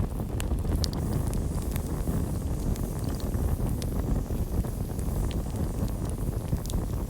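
Campfire burning with a steady low rush of flames and scattered sharp crackles and pops of the wood.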